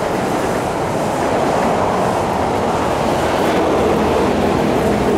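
East Rail Line electric multiple-unit train running past, a steady rumble of wheels on rail that grows a little louder toward the end, with a low hum coming in near the end.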